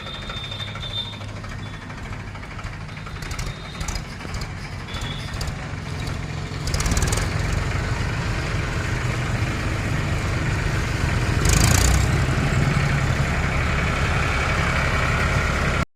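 Tractor engine running steadily, louder from about seven seconds in, with a brief surge near the end.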